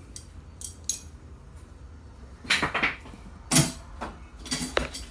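Scattered metallic clinks and knocks, about six separate strikes, one ringing briefly near the end, as metal parts or tools are handled.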